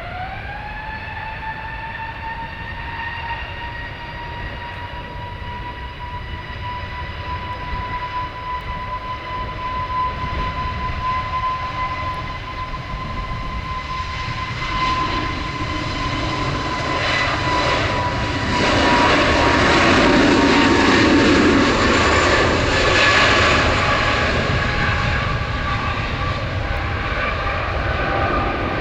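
Jet airliner engines: a steady high whine that climbs a little in pitch at first, joined about halfway through by a building roar that is loudest about two-thirds of the way in, then eases.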